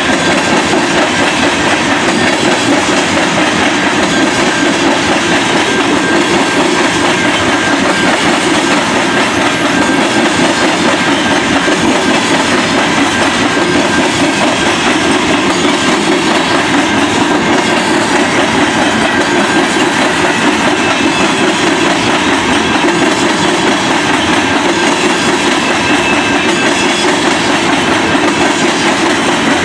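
Railroad cars rolling past at close range, the wheels clattering steadily over the rails, with a faint high wheel squeal.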